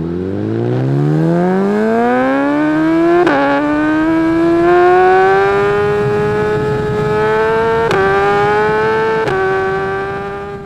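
A high-revving motorcycle engine accelerating hard, its pitch climbing steadily, with a quick upshift about three seconds in and two more near the end. It fades off at the end.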